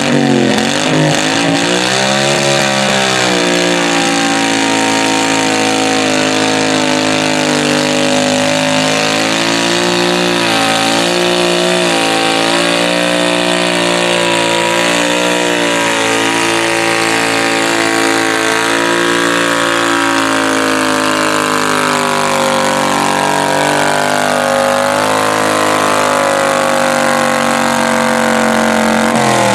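Modified garden tractor pulling engine running hard at high revs under load. The pitch climbs about two seconds in and holds with small wavers. It then sags slowly over the last third as the load builds, and falls away sharply at the end.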